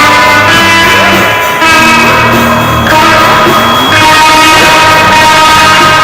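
Rock band music, loud: guitars playing held and sliding notes over drums.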